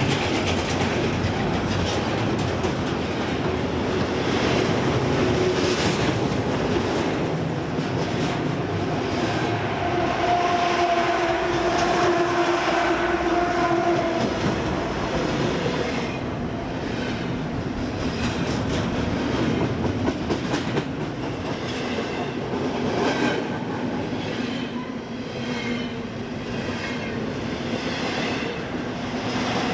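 BNSF freight train rolling past, its car wheels clicking steadily over rail joints. Partway through, a mid-train distributed-power locomotive passes and adds a steady engine tone for several seconds.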